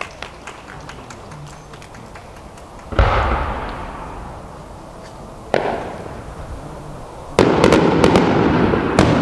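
Large 30 cm (shakudama) aerial firework shells going off: a sharp boom about three seconds in that rolls away in a long echo, a second boom about halfway through, then a louder run of booms and crackle near the end.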